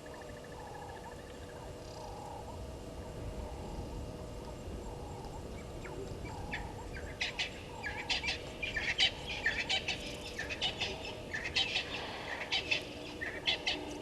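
Wild birds calling: soft repeated calls at first, then about halfway through a loud, rapid chatter of short, sharp calls that runs on with brief breaks.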